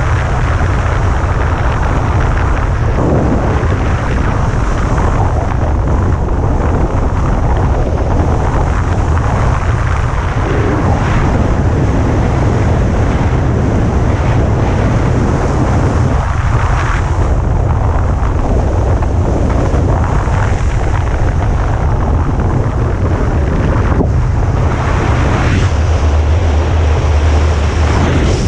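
Loud, steady wind rushing over the microphone, with heavy low buffeting.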